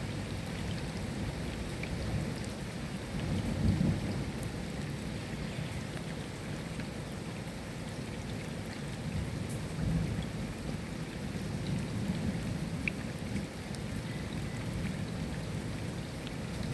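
Steady rain falling, with scattered drop ticks over a continuous hiss. Low rumbles of thunder swell and fade, loudest about four seconds in and again around ten seconds.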